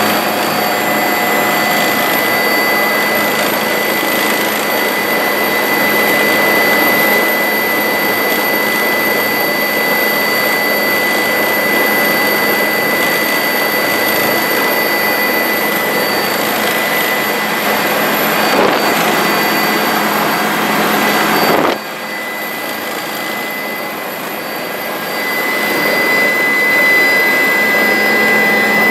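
Bell 407 helicopter in flight: steady turbine and rotor noise, a loud rushing with a steady high whine over it. The level drops suddenly about 22 seconds in and climbs back near the end.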